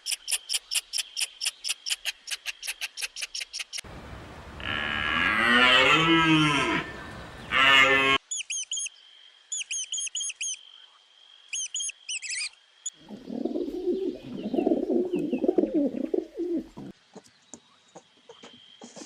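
A string of animal calls: a fast run of high chirps, about five a second, then a cow mooing loudly in a long call that rises and falls, then short high bird chirps, and a rougher, lower animal call near the end.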